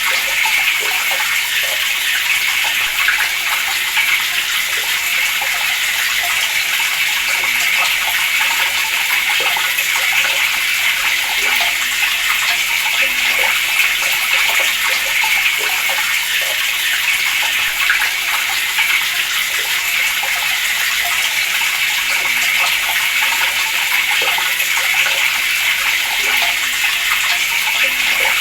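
Water running steadily from a tap, a constant splashing rush without pause or change.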